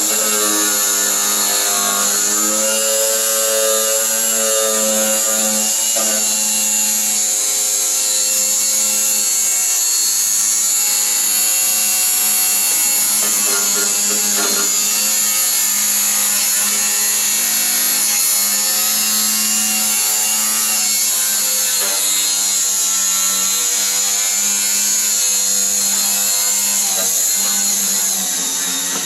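Power grinder running under load, grinding through the bolts that hold the truck bed down, with a steady high whine and a hiss; it eases off near the end.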